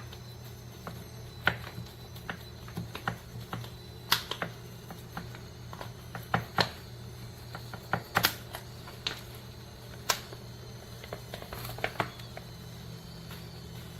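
Irregular sharp clicks and taps, a few close together and others a second or more apart, over a steady low hum.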